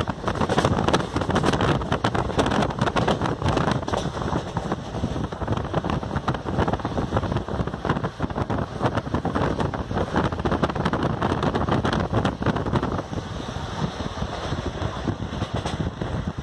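Wind buffeting the microphone at the open window of a moving passenger train, over the train's steady running noise.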